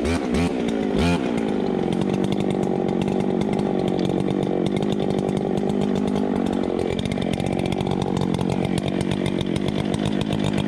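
Two-stroke chainsaw blipped a couple of times, then left running steadily at low speed. It is an old, neglected saw that the owner says has a faulty throttle cable and a leaking fuel line.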